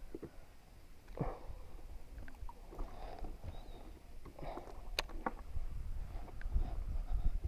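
Kayak handling noises: scattered knocks and clicks on the kayak with a few short water splashes, over a low rumble that grows louder in the second half.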